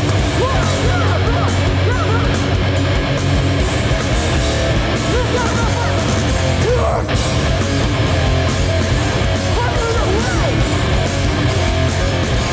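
Hardcore punk band playing live at full volume, with heavy distorted electric guitars.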